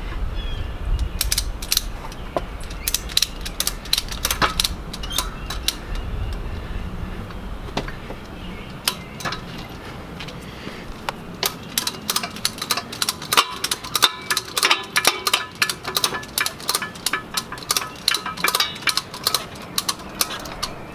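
Ratchet tie-down strap being cranked tight to secure a motorcycle, its pawl clicking in repeated quick runs that grow denser in the second half.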